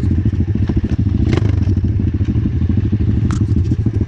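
Pit bike's single-cylinder engine running steadily under throttle, its exhaust firing as a fast, dense pulse, with a couple of sharp knocks along the way.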